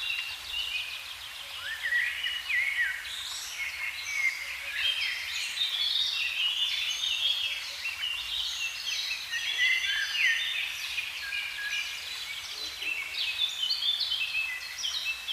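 Several songbirds singing at once in a dense morning chorus: many short chirps, quick sliding notes and trills overlapping without a break.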